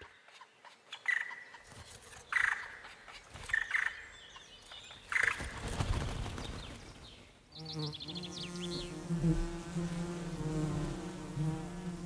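A few short, separate bird calls, then from a little past halfway a steady, pitched buzzing of honeybees in flight.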